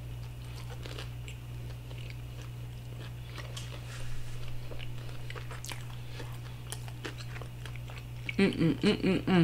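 Close-miked closed-mouth chewing of a seafood taco, with soft wet mouth clicks and smacks, over a steady low hum. Near the end come about five short pitched closed-mouth "mm" hums of relish while chewing.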